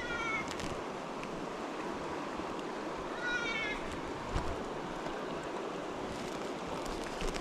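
Steady rush of flowing water, with two short wailing animal calls over it: one at the start and another about three seconds in.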